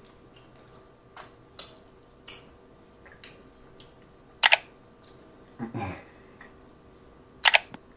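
Close-miked eating sounds of chewing spaghetti: wet chewing and mouth smacks with scattered short clicks, the loudest a sharp double click about four and a half seconds in and another near the end.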